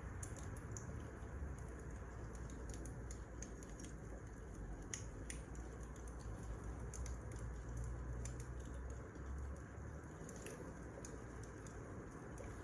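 Wood fire burning: scattered crackles and small pops over a steady low rumble.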